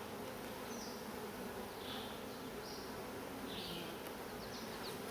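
Honeybees buzzing steadily around an open hive during a frame-by-frame inspection, a soft even hum of the colony.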